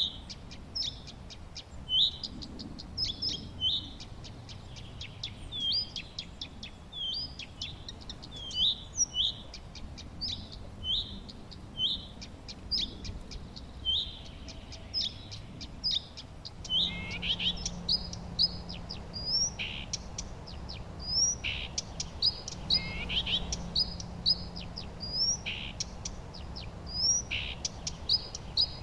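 Songbirds chirping, with many short, quick high notes repeated over and over. About halfway through, a low steady hum and a soft hiss come in underneath.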